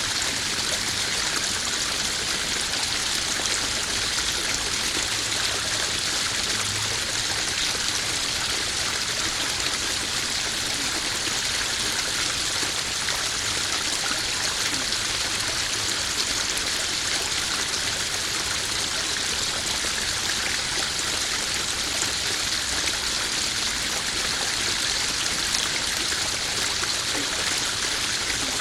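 Small garden pond waterfall splashing steadily into a koi pond, an even rush of running water.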